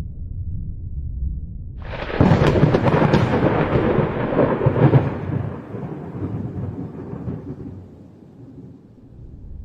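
Thunder: a low rumble breaks into a sudden sharp crack about two seconds in. Loud crackling follows for about three seconds, then the thunder rolls away into a low rumble.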